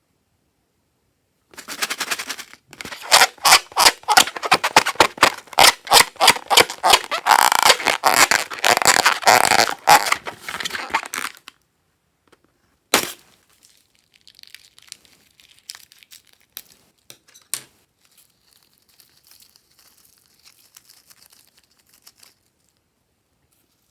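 Slime-making materials handled by hand: rapid crackling and crinkling for about ten seconds, then a single sharp snap, then faint scattered crackles.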